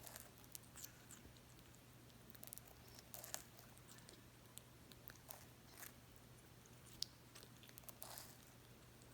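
Senegal parrot biting and nibbling at a large strawberry: faint, irregular small clicks and soft wet crackles from her beak in the fruit, over a low steady hum.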